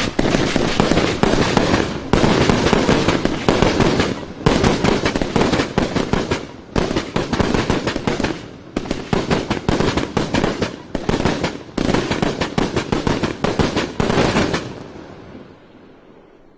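A 500-gram multi-shot consumer fireworks cake firing, a dense rapid string of bangs and crackling bursts in several runs with short breaks between them. The shots fade away near the end as the cake finishes.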